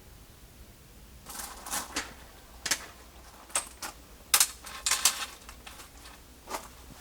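Irregular light clicks, taps and knocks, a dozen or so, starting about a second in, the loudest around four to five seconds in.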